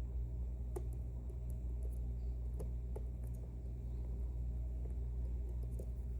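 Faint, scattered small metallic clicks of a lock pick working the sliders inside an Ezcurra slider lock under light tension, searching for binding sliders, over a steady low hum.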